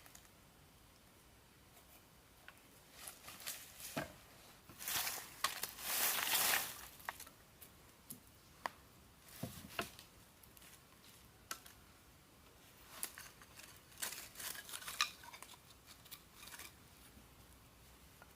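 Close handling noises: scattered light clicks with short scraping and rustling strokes, the longest and loudest about five to seven seconds in.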